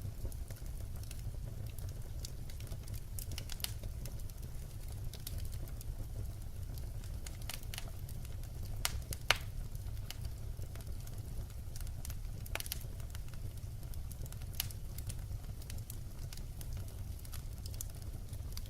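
Wood fire burning, with scattered crackles and sharp pops over a steady low rumble; one pop about nine seconds in is the loudest.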